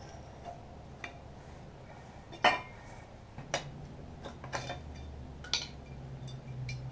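Sharp metallic clinks of hand tools against drum-brake hardware, five or six of them about a second apart, the loudest about two and a half seconds in, over a low steady hum.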